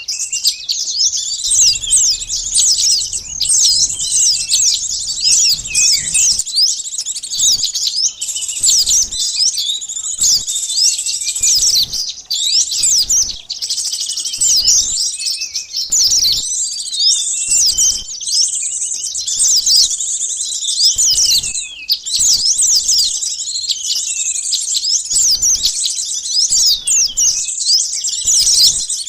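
Dense chorus of many small songbirds, sunbirds among them: rapid high chirps and twitters overlapping without a break, a noisy lure call for wild small birds.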